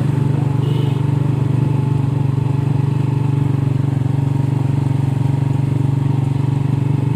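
An engine running steadily at an even speed, with no rise or fall in pitch.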